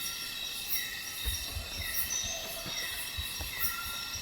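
Deep thumping grunts from an unidentified rainforest animal, several short thumps in a loose run about a second in and a few more near three seconds in. They sit under a steady night chorus of insects, with a falling chirp repeating about once a second.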